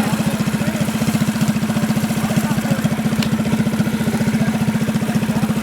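Minibike engine idling close by, a steady, even putter that holds the same speed and level throughout.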